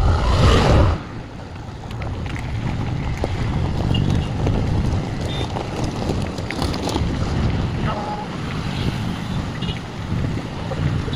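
Wind buffeting the microphone of a moving bicycle, over steady road-traffic noise. A louder rush of noise fills the first second, then a steady low rumble continues with a few faint short high tones.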